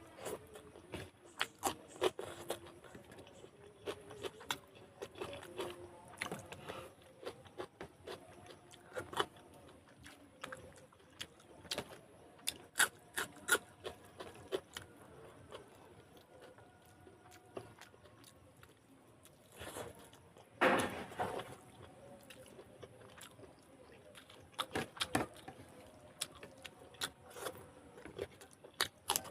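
Close-up eating sounds: a spoon clicking and scraping against a plate of chicken and rice, with chewing in between. A louder, longer noise comes about twenty seconds in.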